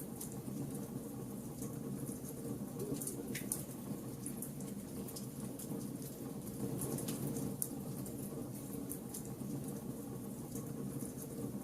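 Wood fire burning: a steady low rush of flames with scattered sharp crackles and pops from the burning wood, a few louder pops among them.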